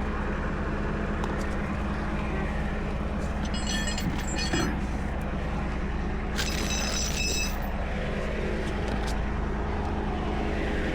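A truck engine idling steadily, with two short spells of metal chain clinking and rattling, about three and a half seconds in and again around six and a half seconds, as tow chains and hooks are handled.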